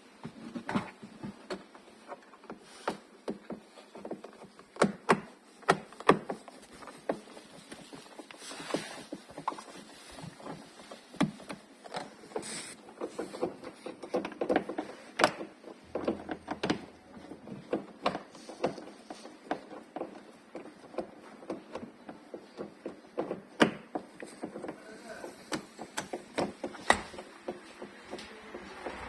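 Irregular clicks, taps and knocks of hand tools and plastic interior trim clips being worked loose as a car's headliner is taken down.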